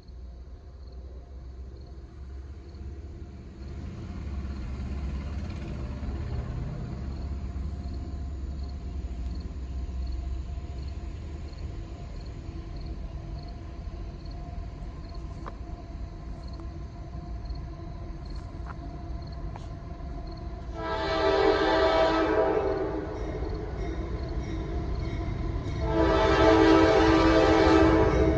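Norfolk Southern diesel locomotive approaching with its engines rumbling, then sounding its multi-tone air horn: one blast about three-quarters of the way in and a second, longer blast near the end.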